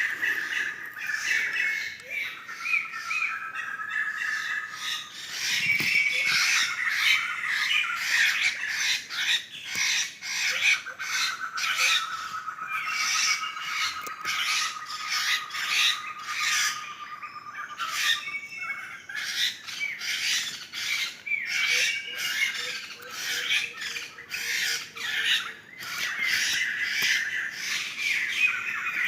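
A flock of laughingthrushes calling together: dense, overlapping harsh squawks and chattering notes. A long, even trill of rapid notes runs from about 10 to 18 seconds in.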